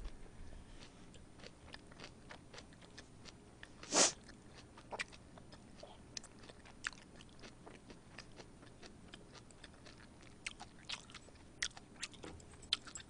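Close-miked chewing of a mouthful of kimchi stir-fried pork and rice: soft, wet mouth clicks and smacks scattered throughout, with one louder click about four seconds in and the clicks coming more often near the end.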